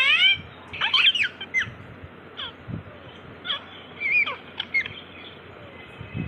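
Pet parrot calling: a string of short squawks and whistled calls, some gliding up and some down in pitch.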